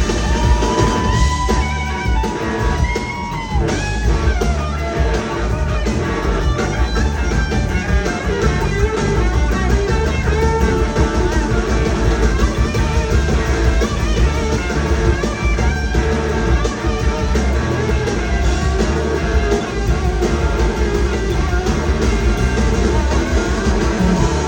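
Live rock band playing: electric guitar over bass and drums. A long held high note bends downward a little after three seconds in, then the band carries on.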